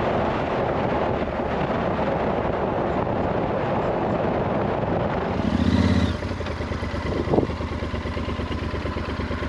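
2012 Yamaha Super Tenere's parallel-twin engine running with heavy wind noise while under way. About six seconds in, the noise drops away and the engine settles to a steadier, lower note, with one sharp click shortly after.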